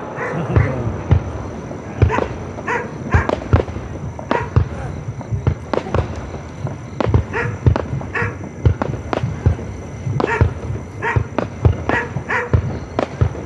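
Fireworks going off: an irregular string of sharp bangs and pops, several a second.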